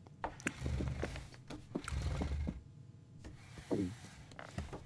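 Cartoon chewing: wet, smacking mouth noises with dull low thumps, in two bursts. A short vocal sound falling in pitch comes about two-thirds of the way in.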